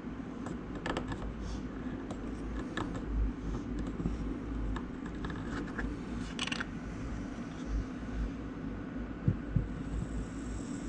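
Small clicks and taps of a solder vacuum and tools being worked on a circuit board while desoldering a capacitor, over a steady low hum, with a quick run of sharper clicks past the middle and two short knocks near the end.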